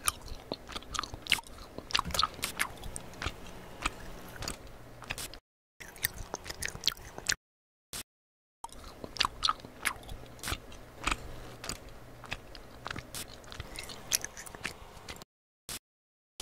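Close-miked chewing of gummy candy, gummy worms and gummy hearts: soft biting with many quick sharp mouth clicks. It comes in stretches broken by short silent cuts, about five and a half, eight and fifteen seconds in.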